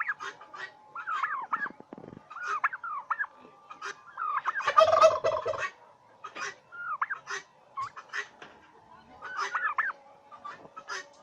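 Domestic turkeys on a farm calling: a steady run of short yelps and peeps, and about halfway through a turkey gobbles loudly for over a second.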